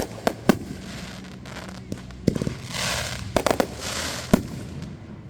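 Consumer fireworks going off: a string of sharp bangs, some in quick clusters, with two swells of hissing crackle between them.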